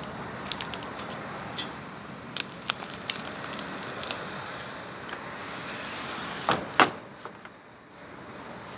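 Steady hum of road traffic with a run of small sharp clicks and clinks in the first few seconds, and two louder knocks about six and a half seconds in.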